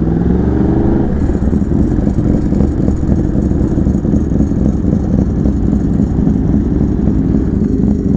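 Sport bike engine running while riding slowly, its pitch rising through the first second and then holding steady at low revs.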